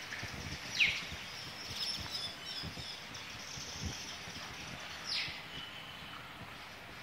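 Birds chirping over a steady background hiss, with two sharp downward-sweeping calls, the louder one about a second in and another about five seconds in.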